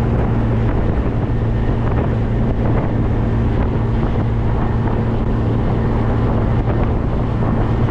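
Classic car cruising at a steady speed: an engine drone holding one pitch, mixed with wind and road noise.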